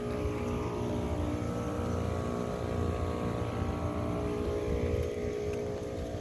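Outdoor air-conditioner condenser unit running: a steady mechanical hum of compressor and fan over a low rumble, thinning out about five seconds in.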